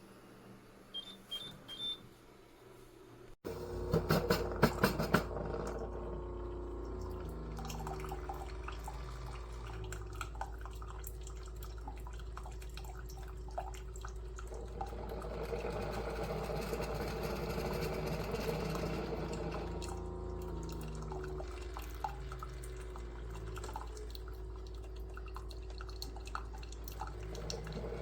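Instant Solo single-serve pod coffee maker brewing. A few short beeps are followed, about three seconds in, by its pump starting with a steady hum and a rattle. Coffee then gurgles and drips for the rest of the time.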